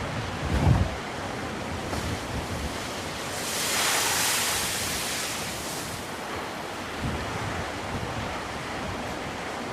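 Black Sea waves washing on the shore, one wave swelling into a hissing rush about three seconds in and fading by six. Wind buffets the microphone with low rumbles in the first second.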